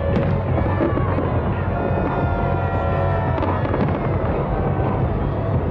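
A fireworks display going off: a rapid, unbroken string of bangs and crackles over a constant rumble, with a few held high tones about two to four seconds in.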